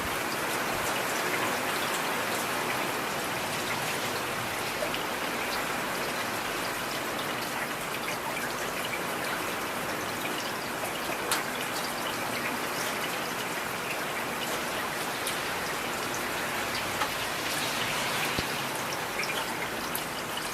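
Heavy rain falling steadily, a dense hiss with scattered individual drop ticks and a few louder drop hits.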